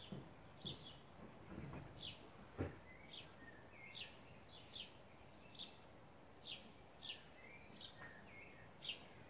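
Faint garden ambience with a small bird chirping over and over, short falling chirps about twice a second, and a single knock about two and a half seconds in.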